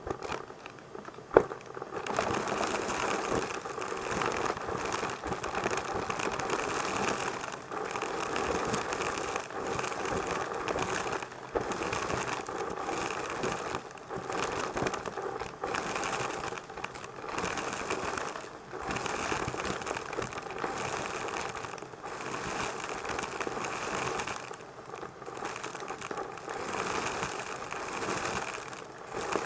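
Numatic vacuum cleaner switched on with a sharp click about a second in, then running with a busy, uneven crackling rattle that rises and dips every second or two.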